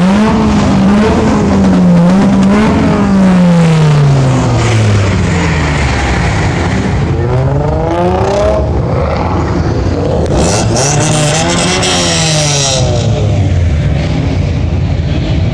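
Loud car engine revving up and down again and again, its pitch climbing and falling in long sweeps. A harsh high hiss rises over it for a couple of seconds after about ten seconds in.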